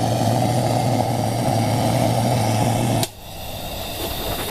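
Petromax-type kerosene pressure lantern's burner roaring steadily with a low hum under it, as when it is being preheated. About three seconds in, the roar cuts off suddenly, leaving the quieter steady hiss of the running lantern.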